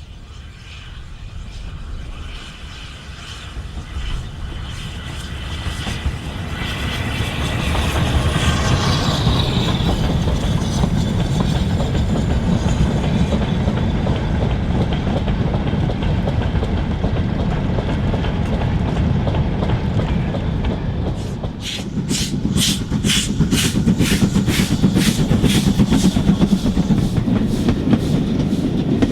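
Steam train running past on the line, growing louder over the first several seconds as it approaches. In the last seven seconds a regular beat of about three strokes a second runs through the sound.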